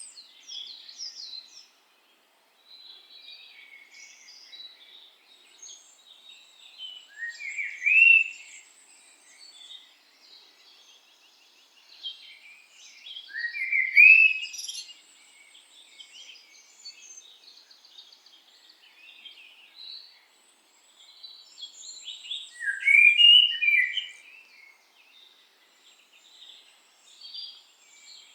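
Songbirds singing: a continuous mix of chirps and twitters, with one louder bird's song phrase standing out three times, roughly every six to nine seconds.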